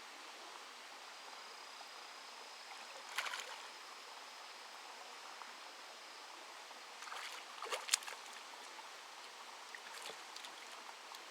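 Quiet outdoor ambience at a fishing pond: a steady faint hiss like running water, with a thin high tone through most of the first part. Two brief bursts of clicking and rustling come about three seconds in and again around seven to eight seconds in, the later one sharper and louder.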